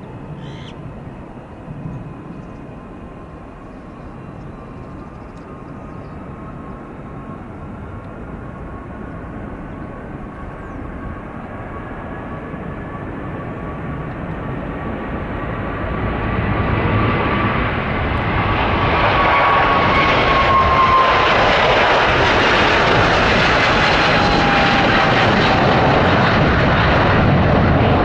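Boeing 777-300ER's twin GE90 turbofans at takeoff power, growing steadily louder as the jet accelerates down the runway toward the listener. The engine whine rises slightly and then drops in pitch about two-thirds of the way in as the aircraft passes. A heavy jet roar then holds at its loudest.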